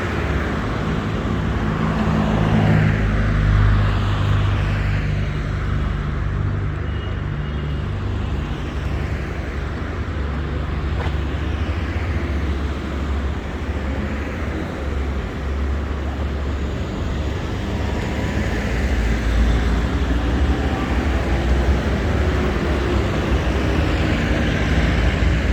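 Street traffic: motor vehicles running and passing, a steady low rumble with no let-up.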